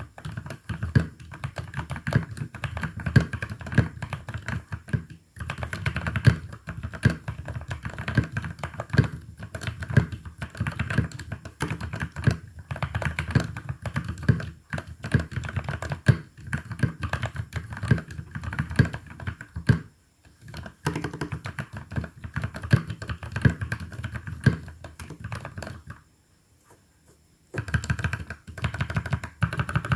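Typing on a mechanical keyboard with lubed Outemu Brown tactile switches: a steady run of soft, deep keystrokes, broken by brief pauses about five and twenty seconds in and a longer one near the end.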